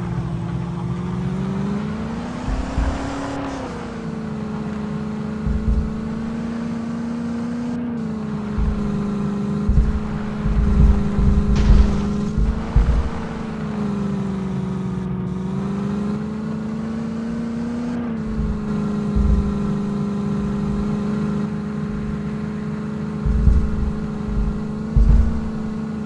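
Tractor's diesel engine running steadily. Its pitch rises about two to three seconds in, then dips and recovers slightly a few times, with irregular low thumps.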